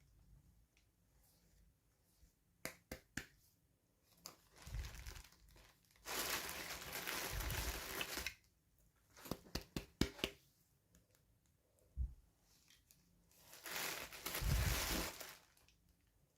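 Toy packaging crinkling and tearing as it is opened by hand. It comes in bursts: a long rustle about six seconds in and another near the end, with small clicks and taps in between.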